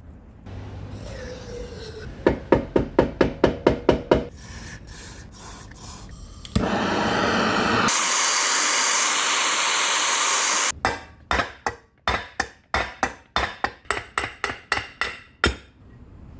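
Rapid hammer strikes during tool restoration work, about four or five a second, in two runs separated by a few seconds of steady hissing noise.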